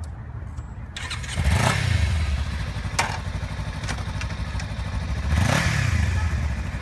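Kawasaki Ninja 300's parallel-twin engine idling, with its throttle blipped twice so the revs rise and fall, about a second and a half in and again near the end.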